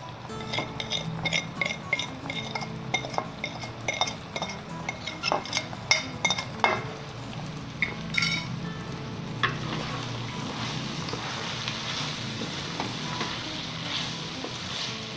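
Clinks and taps of a glass bowl and utensils against a steel kadai as spices are tipped onto frying minced meat, then, about nine seconds in, a steady sizzle as the meat and spices are stirred in the hot oil with a wooden spatula.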